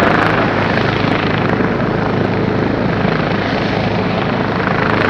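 Airbus H145 helicopter (PP-NJR) running steadily on the ground: whine of its twin turbines and a fast, even beat from the rotor.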